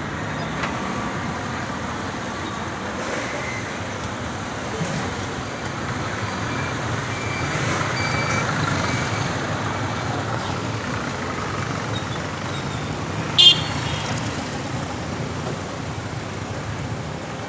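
Steady road traffic noise, with a brief high horn toot about thirteen seconds in.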